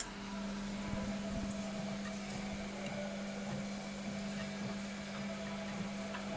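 Old Bosch washing machine running a cottons 40°C cycle: a steady mechanical hum comes on right at the start and holds at one pitch, over a low whirr with a few faint ticks.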